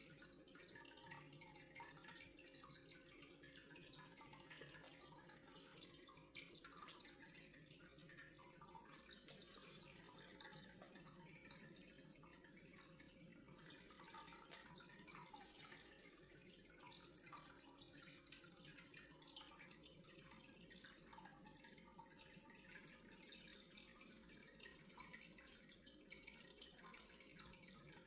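Faint trickling and dripping water with many small ticks, over a steady faint hum.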